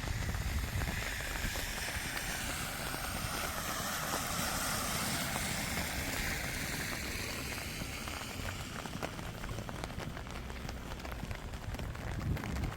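A vehicle passing on a wet road, its tyre hiss swelling and then fading over several seconds, with rain pattering throughout.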